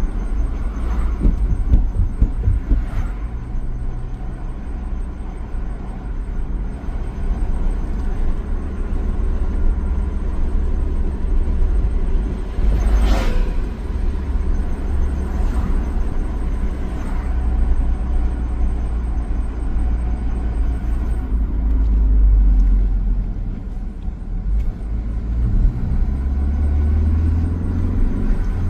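Inside a 2017 Ford Focus ST on the move: a steady low road and engine rumble, broken by a few short sharp squeaks or knocks, the loudest about 13 seconds in. The engine note rises near the end.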